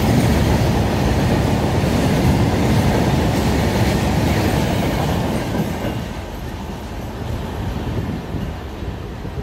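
BCNHL covered hopper freight wagons rolling past at speed with a steady wheel-on-rail noise, until the last wagon clears about six seconds in and the sound falls away as the train draws off.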